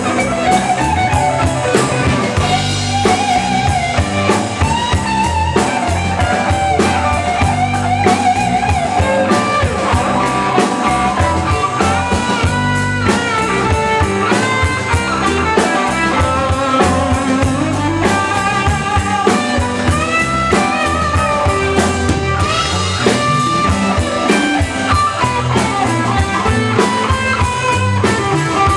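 Live band playing a slow blues-rock song, guitar to the fore over drum kit and bass.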